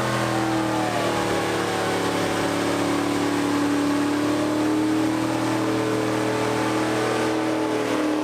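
A car engine revved and held at high, nearly constant revs, its pitch drifting slightly, over a wash of noise.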